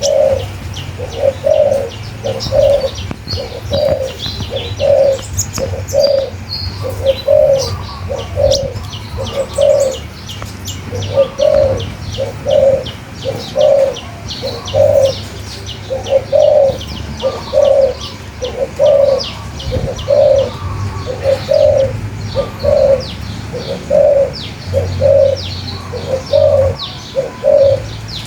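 Birds calling: a low, soft call repeated about once a second carries on throughout, with many small birds chirping high and fast over it.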